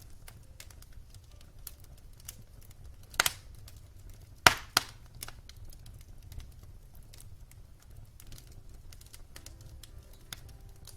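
Wood fire crackling in a fireplace: scattered small snaps over a low steady rumble, with two loud sharp pops about three seconds in and about four and a half seconds in.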